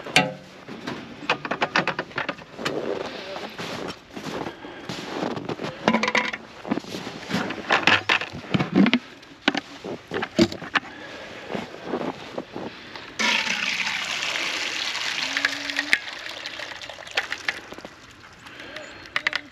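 Repeated knocks and clatter of frozen ice being banged loose from a chicken waterer. About 13 seconds in, water is poured from a bucket into the waterer for about four seconds.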